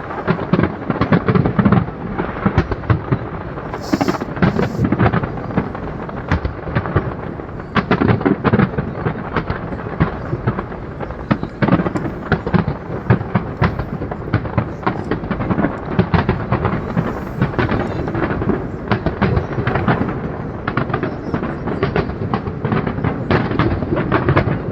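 Fireworks display: a dense, continuous barrage of booming bursts and crackling explosions.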